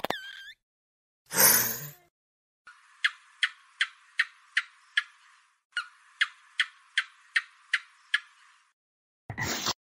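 Two runs of short, sharp clicking chirps, about two and a half a second, with a brief, louder rough sound about a second and a half in and another short burst near the end.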